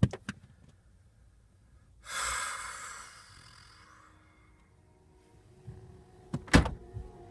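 A person's breath: one long noisy exhale that starts about two seconds in and fades away over about two seconds. Near the end comes a sharp knock.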